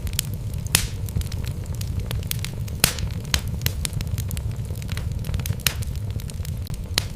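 Wood fire burning in a fireplace: a steady low rumble of flames with logs crackling and popping at irregular intervals, a few sharper snaps standing out.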